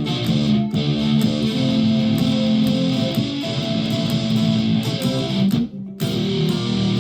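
A Flight Centurion solid-body electric ukulele played through an effects pedal and amp modeller into a PA speaker, with sustained, heavily driven notes and chords. The playing stops briefly just before the end, then starts again.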